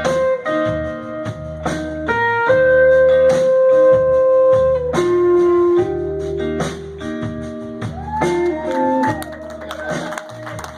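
Live blues band playing: electric guitar holding long lead notes over a steady drum beat, with a note sliding up and then back down about eight seconds in.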